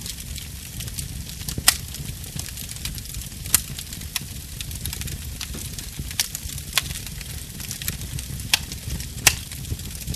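Wood fire burning in a fireplace: a steady low rumble of flames with a fine crackle, broken by about six sharp pops from the burning logs, the loudest two in the first few seconds.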